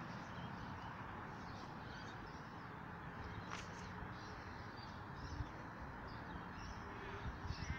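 Faint birds chirping over a steady low outdoor rumble, with one brief click about three and a half seconds in.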